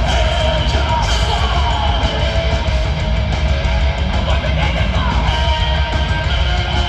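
Heavy metal band playing live at full volume: distorted electric guitars over pounding drums and bass.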